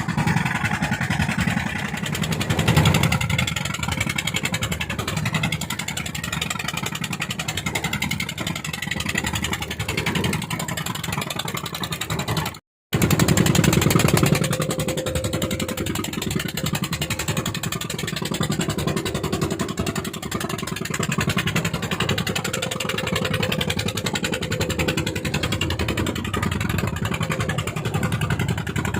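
Fishing boat's engine running hard at full throttle, steady and continuous. It cuts out for an instant a little before halfway through, then returns briefly louder.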